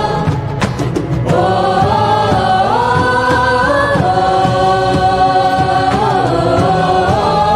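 Devotional song: voices singing long held notes that glide from one pitch to the next, over a steady musical accompaniment.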